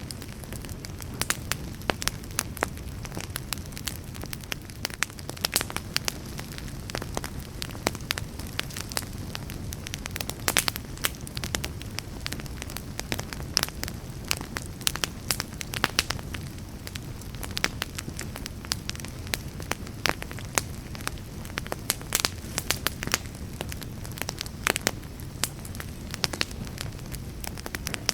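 Fire burning, with frequent irregular sharp crackles and pops over a steady low rumble of flame.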